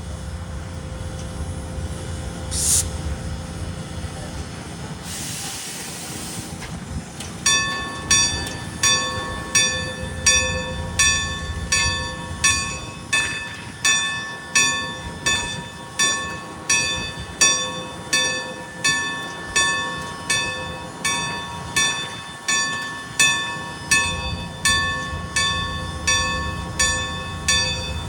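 A railroad crossing bell starts ringing about seven seconds in, with even, repeated strikes, over a low train rumble. Before the bell, two short hisses sound over the rumble.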